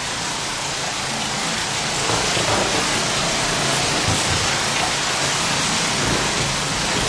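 Heavy rain pouring steadily, with a low rumble coming in near the end.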